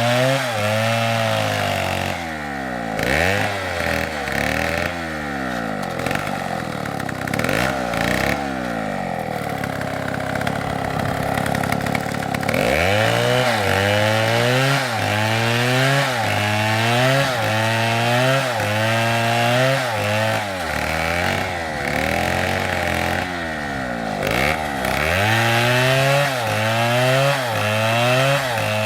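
STIHL two-stroke chainsaw running at high revs while cutting wood, its engine pitch sagging and recovering over and over, about once a second, as the chain bites and eases off. Around a third of the way through, the pitch holds steadier for a few seconds.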